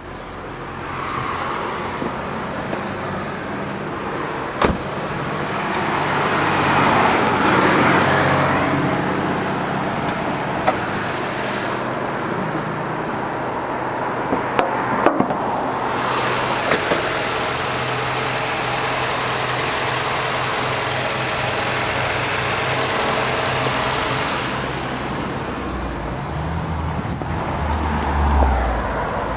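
Four-cylinder turbo engine of a 2014 Nissan Juke idling steadily with an even low hum, while road traffic passes and swells. A few sharp clicks sound over it.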